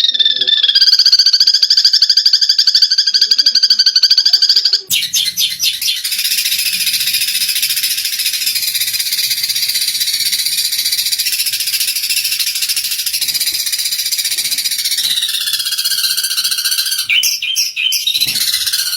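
Eurasian tree sparrows calling in a fight: a fast pulsed trill for about the first five seconds, then a dense, high, continuous chirping chatter, with the pulsed trill coming back near the end.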